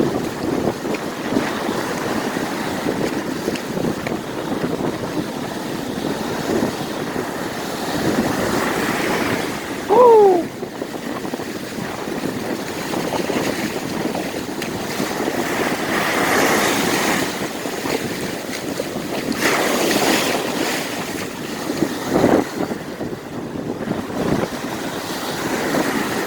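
Rough surf breaking on the beach, with strong wind buffeting the microphone; the rush of the water swells several times as waves come in. About ten seconds in, a short, loud cry falls in pitch.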